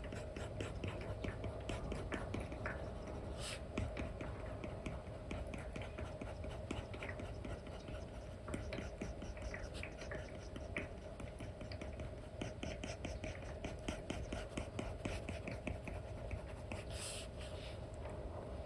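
Apple Pencil 2 with an Elecom replacement nib scratching and tapping across a paper-like film on an iPad screen: quick brush strokes with many small ticks, over a faint steady hum.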